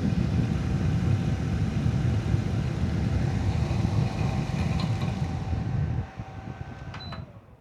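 Simulated wind from two electric fans on full power buffeting a DJI Mic Mini inside a modular motorcycle helmet with its chin bar lifted fully up, a steady heavy rumble of wind noise on the microphone. It falls away sharply about six seconds in.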